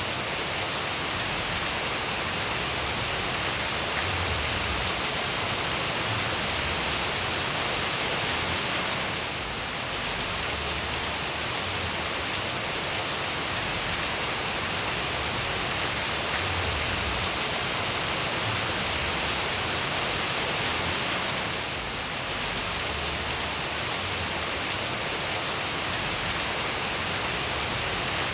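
Steady rain falling: a dense, even hiss of many drops, dipping briefly twice.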